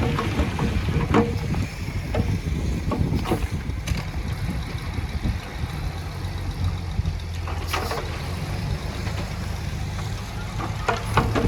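Heavy earthmoving machine's diesel engine running steadily, with a few sharp knocks now and then.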